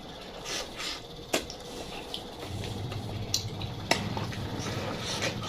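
Close-miked eating at a meal: mouth and food sounds with a few sharp clicks of dishware, and a low hum coming in about halfway through.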